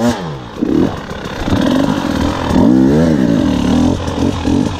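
2019 KTM 300 XC-W two-stroke dirt bike engine revving under the rider. The revs drop just after the start, then climb and fall back once around the middle.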